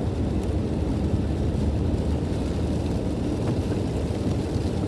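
A steady low rumble with no breaks.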